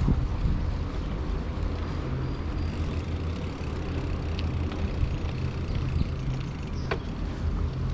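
Steady low rumble of wind on the microphone and rolling noise from a bicycle in motion, with one brief high sound sliding down in pitch near the end.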